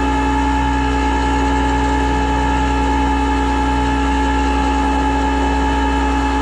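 Flatbed tow truck's hydraulic winch system running at a steady pitch, pulling the car up the bed.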